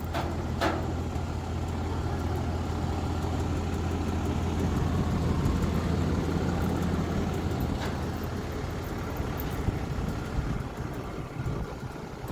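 Truck engine running with a steady low drone and road noise inside the cab while driving.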